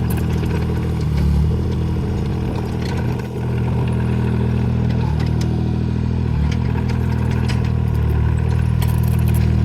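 Mini excavator's diesel engine running steadily under load, with scattered knocks and clatter over it and a brief dip about three seconds in.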